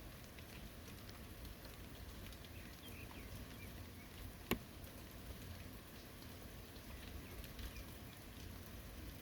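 Light rain falling steadily, with scattered drops ticking on surfaces. One sharp, louder tick about halfway through.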